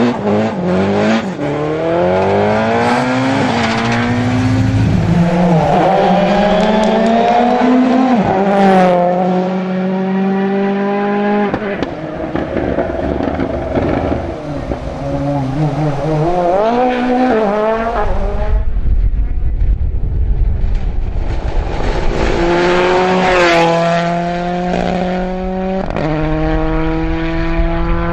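Rally cars driven hard on a special stage, engines revving up and dropping at each gear change as they accelerate past, in several separate passes that cut abruptly from one to the next. In the middle there are a few seconds of low rumbling noise with no clear engine note, then another car accelerates through its gears.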